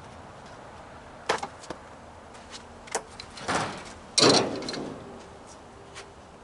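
Scattered knocks and clatter of tools and steel grill parts being handled and set down, the loudest a rattling clank about four seconds in, with a few lighter taps around it.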